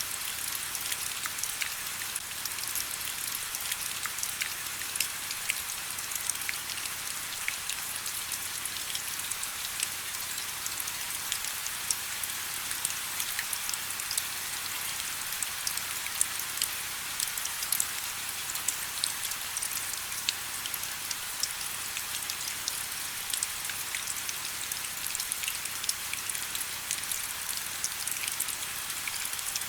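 Steady rain falling: an even hiss dotted with many small, sharp drop taps.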